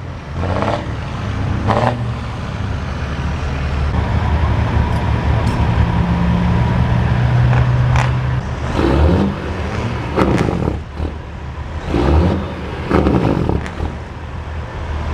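Diesel truck engines running, one revving up and holding higher for a couple of seconds around the middle, with several short louder bursts in the second half.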